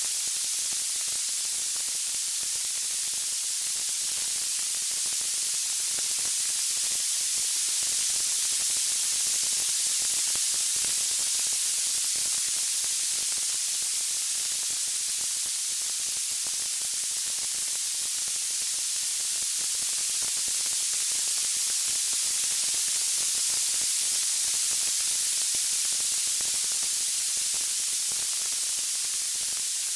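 Steady, even white-noise hiss, bright and high-pitched, with no crackles or music standing out.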